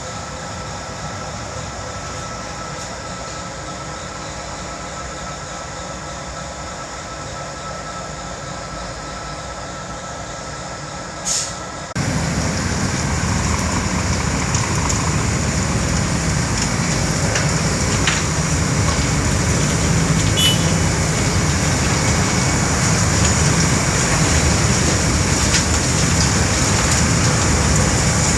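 Heavy road-works machinery running steadily, with a few faint steady tones. About twelve seconds in the sound jumps abruptly to a louder, denser machine noise that holds steady.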